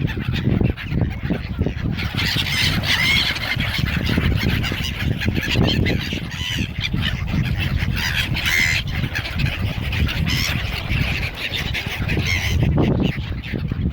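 A crowd of hungry gulls and waterfowl calling over one another without a break, many birds at once, over a steady low rumble.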